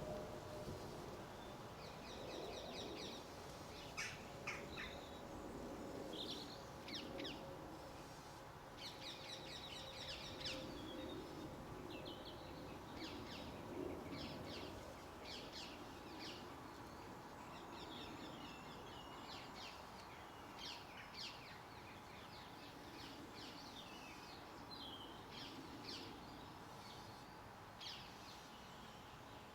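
Garden birds calling, with many short high chirps and twitters coming in quick bursts throughout, over a faint steady hum.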